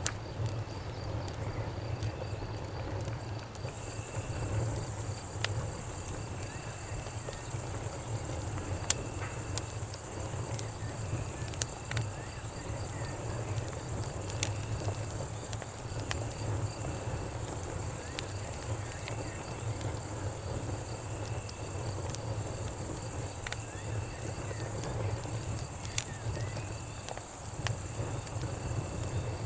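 A steady, high-pitched chorus of night insects, crickets and cicadas, comes in about four seconds in. Under it, a campfire gives scattered sharp crackles and pops over a low, steady rumble.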